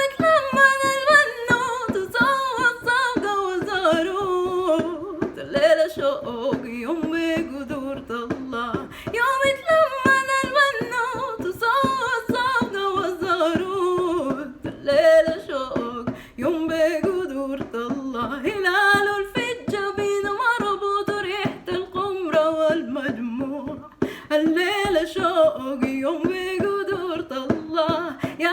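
Woman singing a Sudanese song in Arabic over a quick, steady beat of short percussive strokes.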